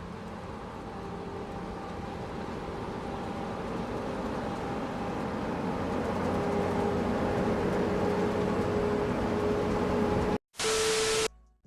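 A steady mechanical hum with rushing noise that grows gradually louder, then cuts off abruptly near the end and gives way to a brief burst of hiss.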